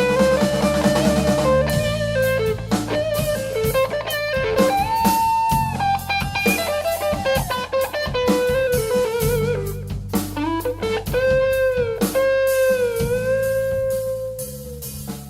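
Rock band playing an instrumental break: an electric guitar solo of held notes with string bends and vibrato over bass and drums.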